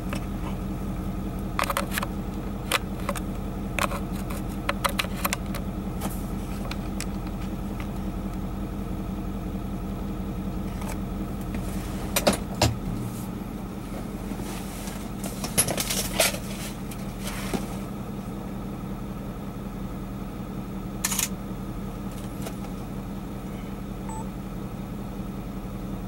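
Vehicle engine idling with a steady low hum, with scattered sharp taps and clicks over it, a cluster of them about halfway through.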